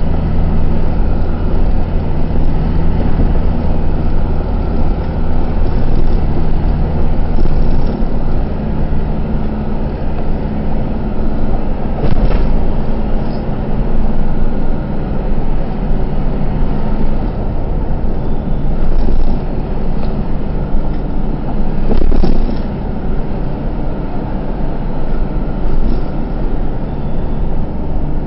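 Truck engine running steadily with road noise, heard from inside the cab. There are a couple of short knocks or rattles, about twelve seconds in and again near twenty-two seconds.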